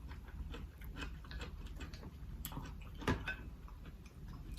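Close-miked chewing and mouth smacking: a run of small, wet clicks, with a louder click about three seconds in.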